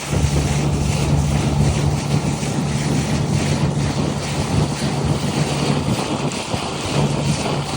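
An old boat's motor running with a steady low hum, under a constant rush of water along the hull and wind buffeting the microphone.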